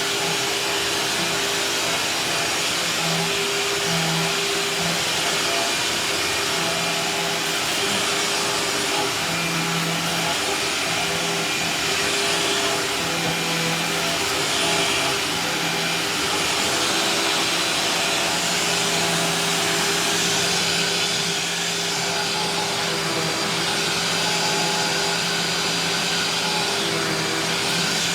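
Vacuum cleaner running steadily, its motor hum wavering slightly as it is pushed across a kitchen floor.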